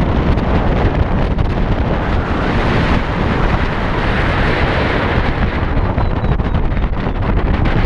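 Heavy wind buffeting a microphone on a moving motorcycle: a loud, steady, rumbling rush of air with no letup.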